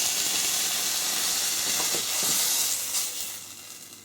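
Oil sizzling steadily in a frying pan where a mushroom-based fake steak and a large mushroom are shallow-frying. The sizzle fades away near the end.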